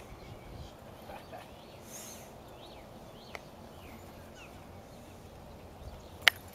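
Outdoor ambience with faint, scattered bird chirps, and one sharp click about six seconds in.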